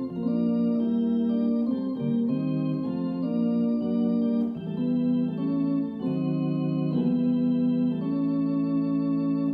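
Yamaha DX7 FM synthesizer playing an organ-like patch: sustained chords held and changed every second or two.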